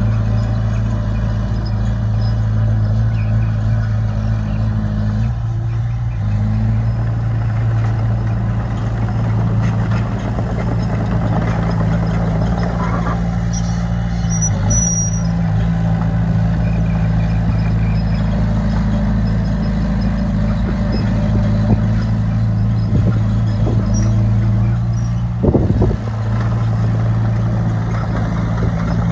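Heavy construction machine's diesel engine running steadily under load, its pitch shifting a few times as the load changes. A short high squeak comes about halfway through and a knock near the end.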